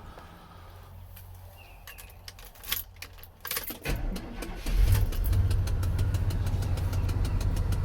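Keys rattle, then the pickup's 350 (5.7-litre) V8 cranks and catches about four seconds in and settles into a steady idle. A rapid, even clicking, about four or five clicks a second, comes in with it. It is the actuator behind the dash that controls the airflow through the vents, a faulty $30 part whose clicking stops after 15–20 seconds.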